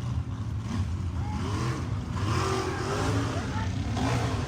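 A vehicle engine running steadily at a low, even pitch, with faint voices of people around it.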